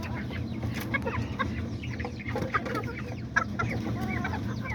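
Bantam chickens clucking, many short calls overlapping one another, over a steady low rumble.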